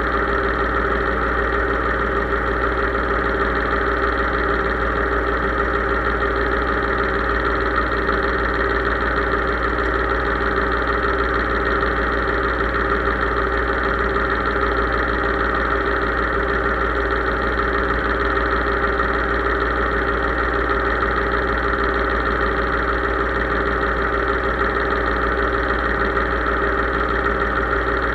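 Case IH 3220 tractor engine running steadily at an even, unchanging speed.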